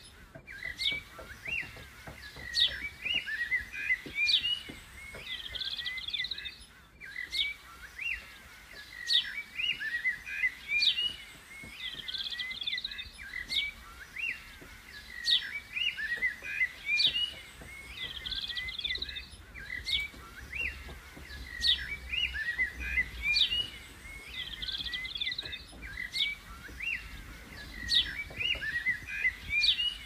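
Small songbirds chirping in a regular repeating pattern: a sharp high chirp about every second and a half, mixed with short warbling trills.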